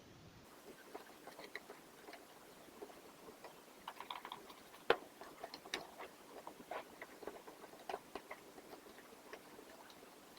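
Microfibre cloth wiping and rubbing vacuum cleaner parts, with scattered light clicks and knocks as the parts are handled, and one sharper click about five seconds in.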